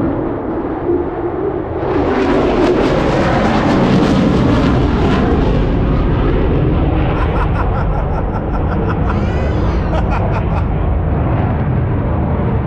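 Airshow airplane flying past, a continuous loud engine rush over a low rumble that swells and brightens about two seconds in and stays strong.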